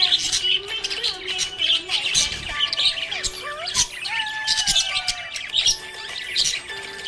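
Budgerigars chirping and warbling: a dense, continuous run of rapid high chirps and squawks, with a few lower whistled glides mixed in.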